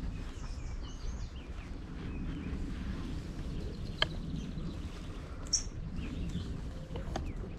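Small songbirds chirping here and there over a steady low rumble of outdoor background noise, with a sharp click about four seconds in and a brief high chirp a little later.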